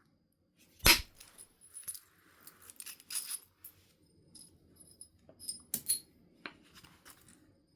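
One sharp percussion strike on flint during biface knapping, followed by lighter clicks and clinks of stone flakes and tools.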